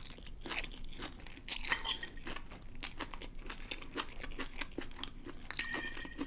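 Close-miked chewing of pancit bihon rice noodles with crisp vegetables: many small irregular crunches and mouth clicks, with a brief high ringing sound near the end.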